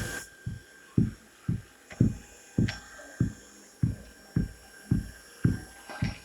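A steady beat of short, low thuds, about two a second.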